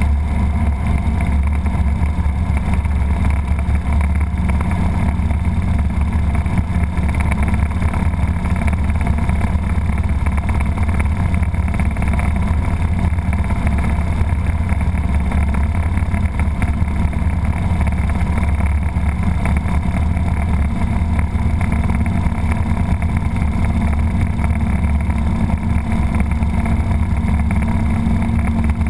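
Robinson R22 helicopter running steadily, its four-cylinder piston engine and rotor making a loud, even drone with a strong low hum.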